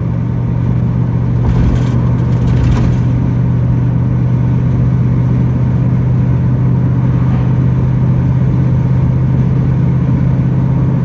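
Camper van driving at road speed: a steady drone of engine and road noise with a strong low hum.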